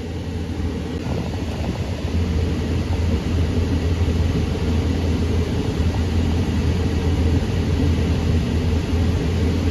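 Car running, heard as a steady low rumble from inside the closed cabin; it grows a little louder about two seconds in.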